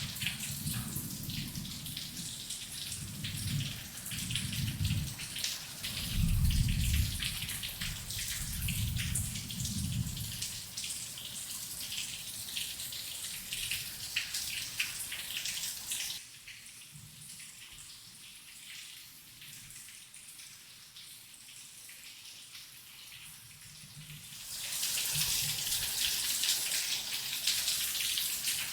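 Heavy rain falling steadily, with low rumbles of distant thunder through the first ten seconds. About sixteen seconds in the rain drops suddenly to a lighter, quieter patter, then comes back heavy again near the end.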